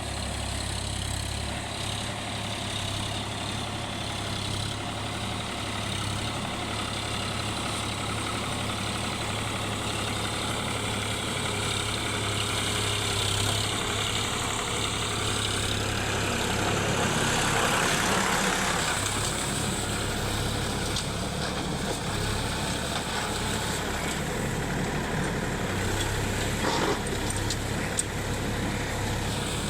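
Sonalika tractor's diesel engine running steadily, growing somewhat louder for a few seconds past the middle, with a few sharp clicks near the end.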